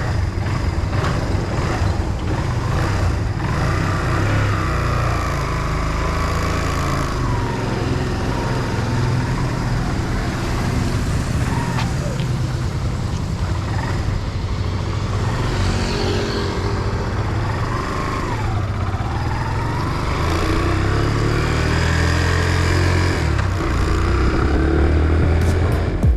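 Motorbike engine running, just kick-started from cold, its pitch rising and falling with the throttle over a steady low rumble.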